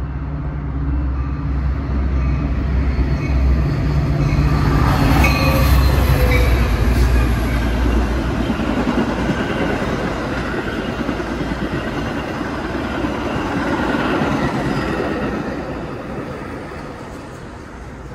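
Westbound Metra diesel commuter train passing at speed on the BNSF line. The locomotive's engine throbs low as it approaches and goes by about five to seven seconds in, followed by the long rumble of bi-level coaches rolling past on the rails, which fades out near the end.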